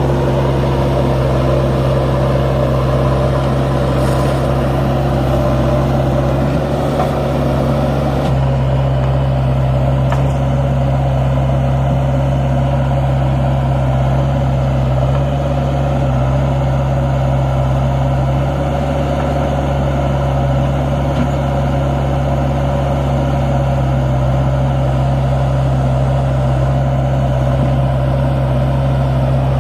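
Force Sanman 6000 tractor's three-cylinder diesel engine running steadily, pulling a fully loaded trolley.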